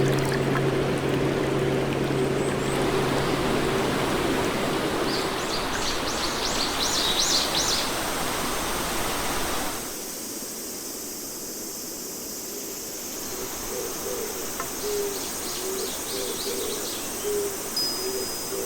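Nature-sound soundscape: steady rushing water with songbirds chirping, the water noise cutting off abruptly about halfway through. After that, quieter birdsong with a run of short, low repeated calls and higher chirps.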